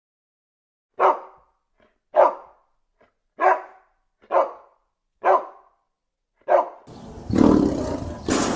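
A dog barking six times, single barks about a second apart. Near the end the barking gives way to a steady noisy background with a louder burst.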